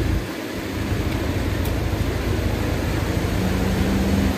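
Steady low rumble of a car engine running close by; a steady low hum joins it about three and a half seconds in.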